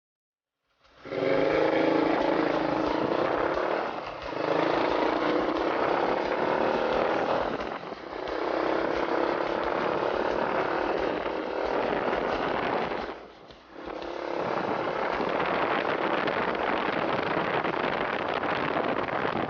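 Honda Cub's small single-cylinder four-stroke engine running under way, with wind rushing past. The sound starts abruptly just under a second in and briefly drops three times.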